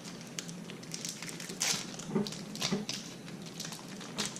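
Plastic candy wrappers being handled, crinkling with a few sharp crackles, the clearest about a second and a half, two, and four seconds in.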